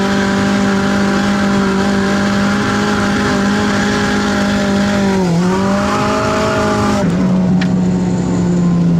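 Nissan 180SX's turbocharged SR20DET inline-four, heard inside the cabin, running at steady revs through a drift with tyre squeal over it. The revs dip briefly about five seconds in. About seven seconds in the tyre noise cuts off while the engine keeps running.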